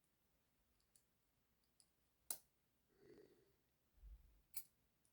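Faint, sparse clicks of small model-locomotive parts being handled and set in place, with one sharper click a little after two seconds in, a soft low thump, and another click near the end.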